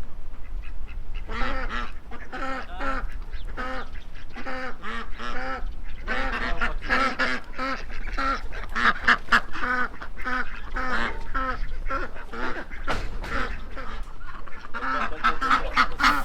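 A flock of farmyard fowl calling: many short, repeated calls that overlap. They grow louder about a second and a half in and again near the end.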